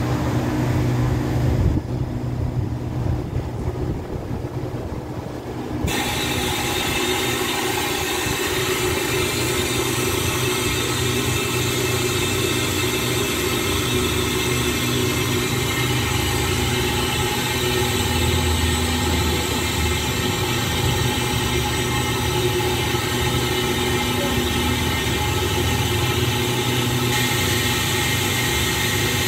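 Diesel-hauled express passenger train standing at a platform, its engines running with a steady hum and hiss. The hiss gets louder about six seconds in.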